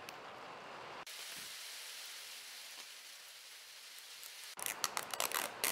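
Steady hiss of rain falling on the workshop. Near the end come sharp crackling clicks as a sheet of self-adhesive sandpaper and its backing are handled and peeled.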